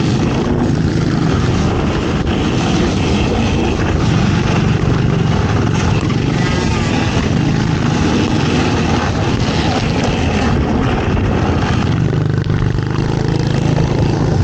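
ATV (quad) engine running steadily under load, a continuous motor drone mixed with a rushing noise.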